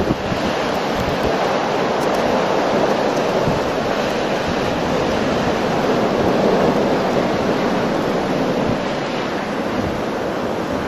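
Blizzard wind blowing hard and steadily, buffeting the microphone.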